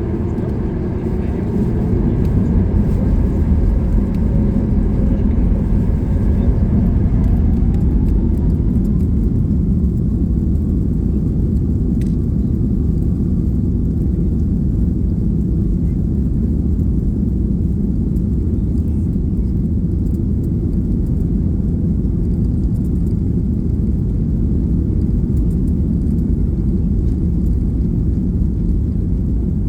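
Boeing 737 MAX 8's CFM LEAP-1B engines at takeoff power, heard inside the cabin: a loud, steady rumble that steps up about two seconds in, with engine whine rising in pitch over the first several seconds.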